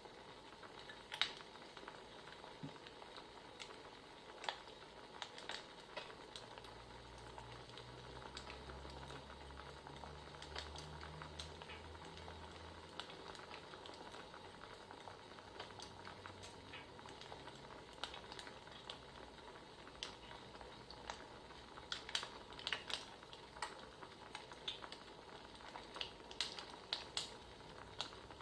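Wood fire crackling: a soft steady hiss with scattered sharp pops and snaps, coming in quick clusters near the end. A low hum sounds under it for several seconds partway through.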